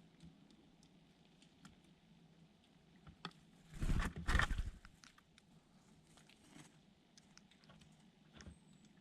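Small birds tapping and pecking, giving scattered sharp clicks, with a louder rustling flurry about four seconds in and a faint thin high call near the end.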